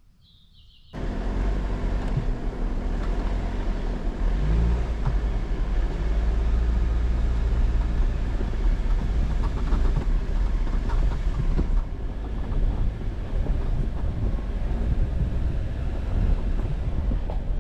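Jeep Wrangler driving along a rough gravel forest road: engine running and tyres rumbling over the gravel, starting about a second in after a moment of quiet.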